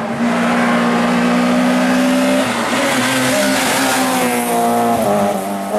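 Race car engine running hard at high revs: a steady note that dips slightly about two and a half seconds in, then climbs again toward the end.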